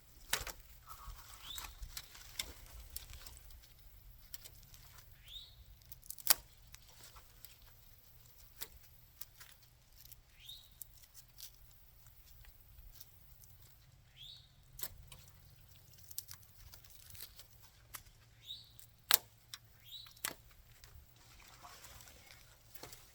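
Scattered sharp snips and clicks at irregular intervals, several of them louder: hand cutting and pulling of old twisted vines off fence wire. Short high chirps come in between.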